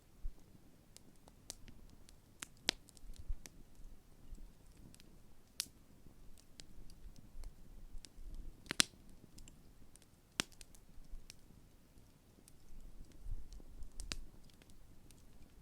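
Large wood campfire crackling, with sharp pops and snaps at irregular intervals; the loudest snap comes about nine seconds in.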